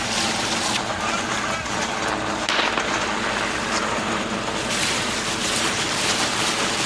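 Steady engine drone with a loud rushing noise over it and indistinct voices, typical of a landing craft under way.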